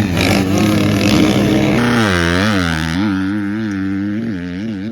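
Motocross bike engine running hard, held steady at first. About two seconds in, its pitch starts rising and falling about twice a second.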